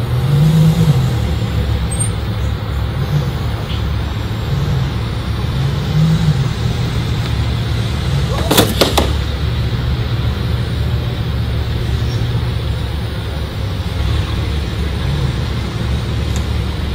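A supercar's engine idling with a steady low rumble, its pitch rising briefly a couple of times, and a short cluster of sharp knocks about halfway through.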